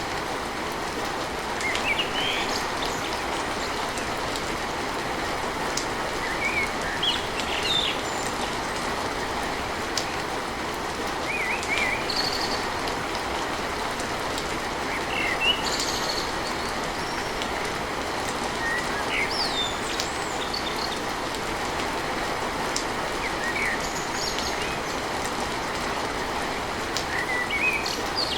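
Steady rain falling on a tin roof, with birds chirping briefly now and then over it.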